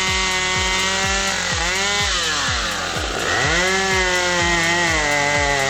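Two-stroke chainsaw running at high revs, its pitch sagging and climbing back about halfway through.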